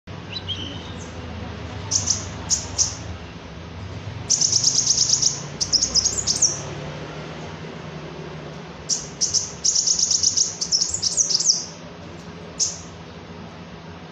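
Small songbird singing in high, sharp chirps, with two bursts of rapid trilled notes and quick up-and-down slides. A faint low hum runs underneath.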